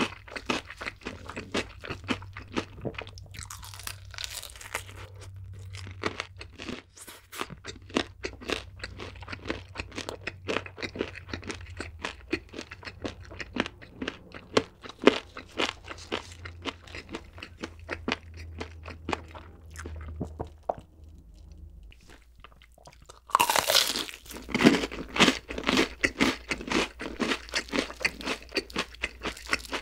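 Crunchy chewing of fried chicken coating, a steady run of crisp crackles. About three-quarters of the way through, after a short lull, comes a sudden louder bite into crispy deep-fried menbosha (shrimp toast), followed by dense, loud crunching.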